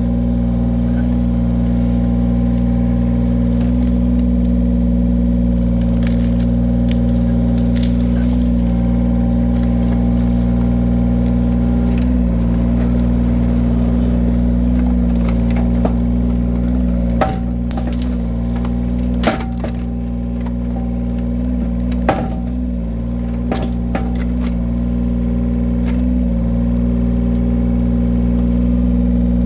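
Engine-driven hydraulic wood splitter running steadily, its engine note dipping briefly under load several times as the blade is forced into logs. Wood cracks and splits with a few sharp snaps, the loudest just past the middle.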